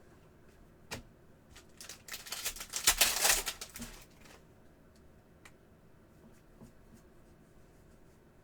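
Trading cards being handled and slid against one another: a single click about a second in, then a run of rapid card flicking and rustling from about two to four seconds in, then a few faint ticks.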